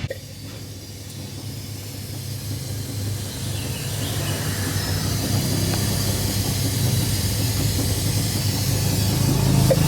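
A machine running, with a steady low hum and a hissing noise that grows steadily louder.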